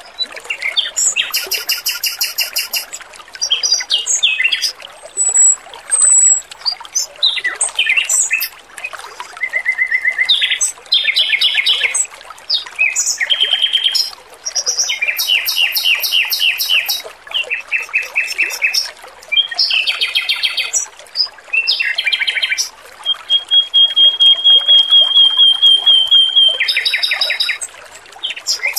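Male Pekin robin (red-billed leiothrix) singing: fast, rattling trills and chattering phrases one after another with short gaps, among them one long, steady trill about two-thirds of the way through. A faint trickle of water runs underneath.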